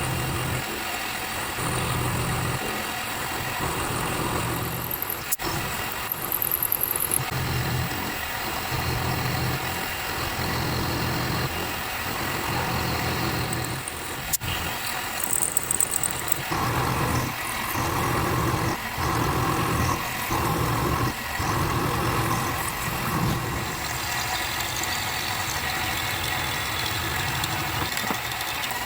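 A motor running, its low hum swelling and dropping in pulses about a second or two long.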